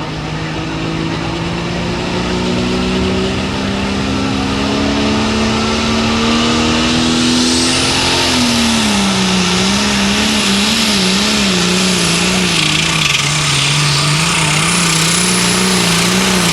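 Turbocharged diesel Limited Pro Stock pulling tractor under full load. Its engine note climbs steadily for the first half, then drops and wavers up and down as the engine labours against the sled. A high turbo whine joins from about halfway.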